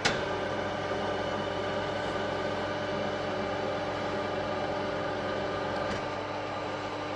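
Ajax AJUM 350 universal milling machine running under power, its spindle turning and the vertical-axis power feed driving the knee: a steady mechanical hum with several steady tones. A sharp click right at the start as the feed engages, and the sound eases slightly about six seconds in.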